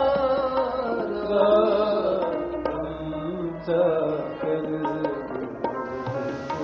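Sikh devotional kirtan music: a wavering, ornamented sung melody held between lines of the hymn, with tabla strokes keeping time.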